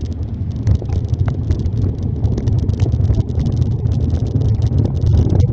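Wind buffeting a handlebar-mounted phone's microphone while cycling in the rain: a steady low rumble with frequent small crackles.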